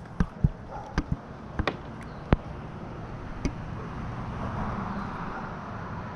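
A run of sharp, irregular knocks and clicks, about eight in the first three and a half seconds, followed by a steady hiss.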